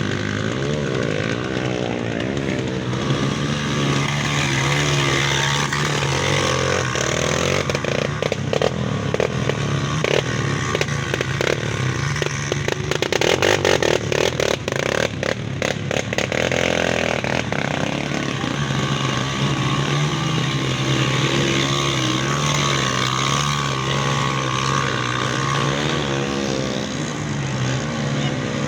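Off-road trail motorcycle engines running and revving hard through mud, with a stretch of rapid crackling and clatter in the middle.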